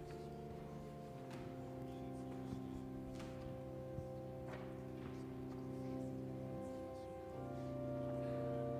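Organ playing a slow prelude of long, held chords, the chord changing about a second in and again near the end.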